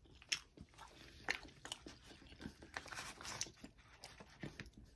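Close-miked chewing of a mouthful of grilled chicken topped with cheese and bacon: faint, irregular wet mouth smacks and clicks.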